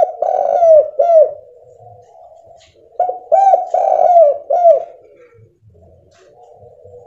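Spotted dove (tekukur) cooing: two phrases of several short, downward-curving coos, the second starting about three seconds in, over a faint steady hum. It is a clear call of the kind used as a lure to set other doves calling.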